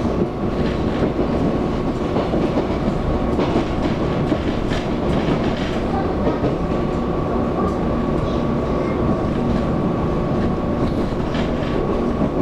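Taiwan Railways EMU700 electric multiple unit running at speed, heard from inside the car: a steady rumble of wheels on rail under a steady electric motor hum, with occasional rail clicks.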